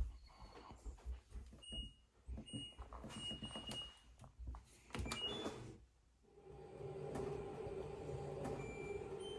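LG washing machine control panel beeping a few times among clicks of buttons being pressed, then about six seconds in the machine starts up with a steady hum.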